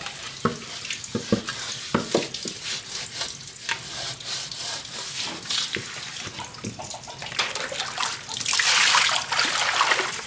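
Water splashing and pouring, with scattered knocks and clinks. A louder stretch of rushing, pouring water comes about seven and a half seconds in and lasts about two seconds.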